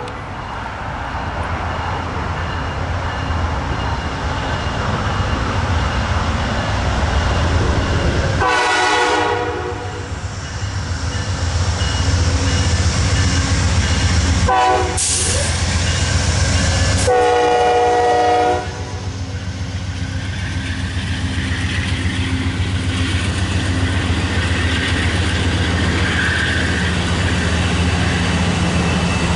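Amtrak passenger train passing: the GE Genesis diesel locomotive's engine rumble builds as it approaches, and its horn sounds a long blast, a short one and another long blast around the middle. After that comes the steady rumble of the passenger cars' wheels on the rails as they roll by.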